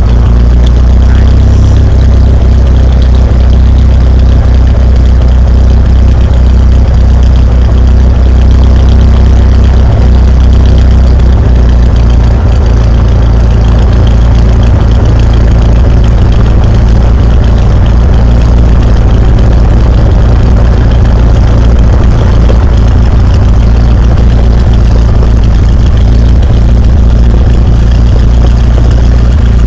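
Cessna 172's piston engine and propeller running steadily, a loud, even drone with a strong low hum.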